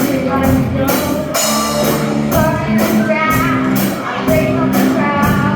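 Live rock music from a children's school rock band: a steady drum-kit beat with guitar and singing.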